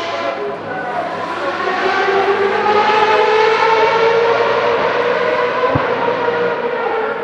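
Lola F3000 race car's Zytek racing engine heard from far off at full throttle up a hill, a continuous high wail whose pitch drifts up and down as the revs change.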